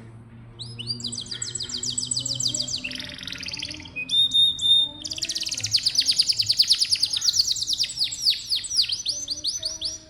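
Domestic canary singing a song phrase: rapid high trills, a short buzzy passage, two held whistled notes about four seconds in, then a long fast trill of falling notes that stops just before the end.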